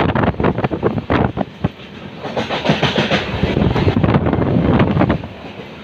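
Train running on the rails, with wheels clattering irregularly over the track and the rumble of the carriage. It gets quieter about five seconds in.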